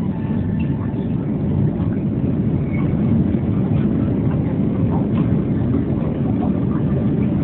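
Steady low rumble of a Boeing 757-200's jet engines.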